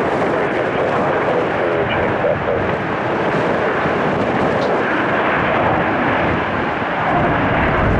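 Jet airliner's engines running loud and steady as it passes close by.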